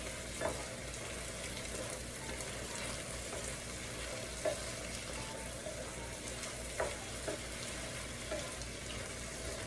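Chicken and vegetables sizzling steadily in an electric skillet, stirred with a wooden spatula that knocks against the pan a few times.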